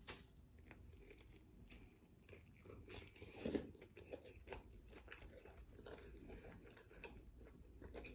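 A person biting into a chicken burrito in a flour tortilla, then chewing with the lips closed: faint, irregular wet smacks and crunches, with a sharp bite at the start and a louder cluster about three and a half seconds in.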